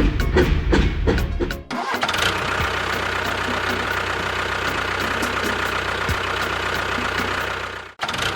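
Percussive music cuts off sharply about a second and a half in. It gives way to a vehicle engine sound running steadily, which stops abruptly near the end.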